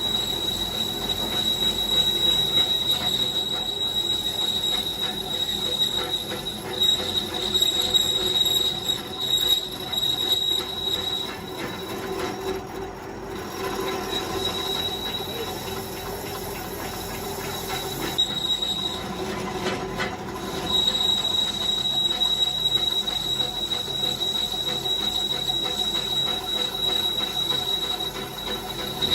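Steady, high-pitched metallic squeal and whine of a power tool working on a steel truck rim. The whine drops out briefly twice partway through.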